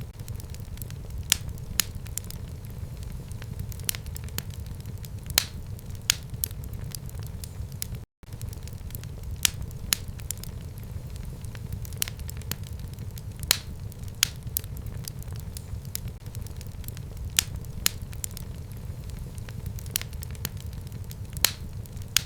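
Fireplace fire crackling, with sharp irregular pops over a steady low rumble. The sound cuts out completely for a split second about eight seconds in, then carries on.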